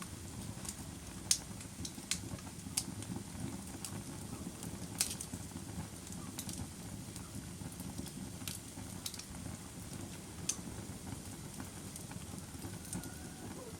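Wood fire crackling: a steady low rumble of burning with sharp, irregular pops every second or so, a few of them louder.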